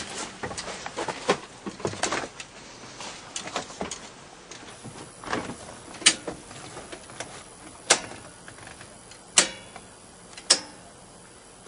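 Knocks, bumps and clicks of someone moving about and handling things, with four sharp, loud clicks spaced a second or two apart in the second half.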